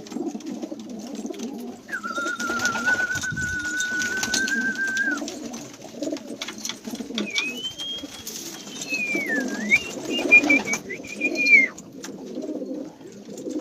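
Many domestic pigeons cooing together in a small loft. Over the cooing, a clear high tone is held for about three seconds near the start, and in the second half a high tone glides up and down.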